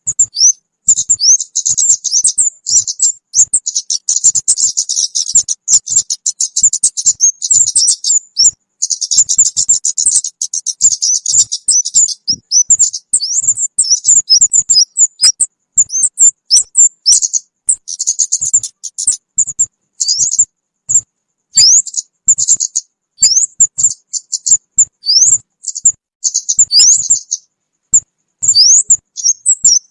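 Looped lure-call recording of the kemade, a small bird: rapid high chirps and quick upward-sweeping whistles in dense bursts, with a brief pause near the end.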